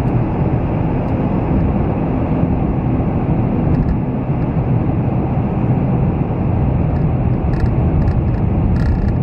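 Steady road and engine noise heard inside a moving car driving on a snowy highway, an even low rumble of tyres and motor with a few faint ticks near the end.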